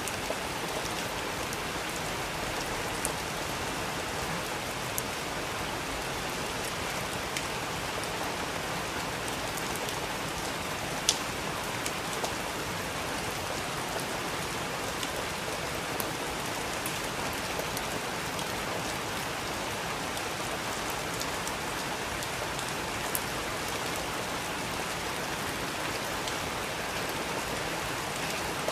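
Steady rain falling, an even hiss with scattered sharper drips striking a surface, the loudest a little after eleven seconds.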